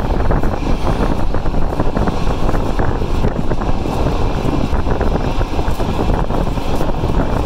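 Passenger train running along the line, heard from inside a carriage at the window: a loud, steady rumble of wheels on rails mixed with wind rushing past the microphone.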